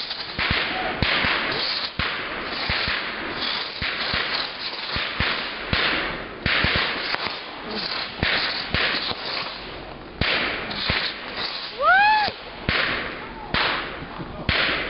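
Fireworks crackling and popping in rapid, stop-start bursts of sharp cracks. About twelve seconds in, a short, loud whistle-like tone rises and falls over them.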